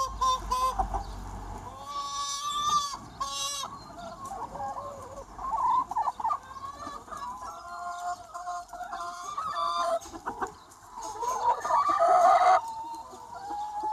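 A large free-range chicken flock clucking and calling, many hens overlapping, with one louder drawn-out call near the end.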